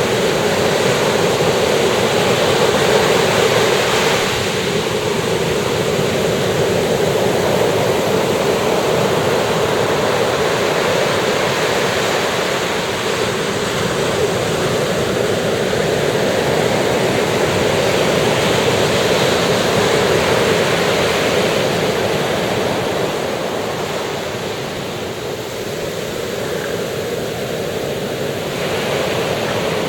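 Sea waves breaking and washing up a beach, a steady rush of surf that swells and eases every few seconds.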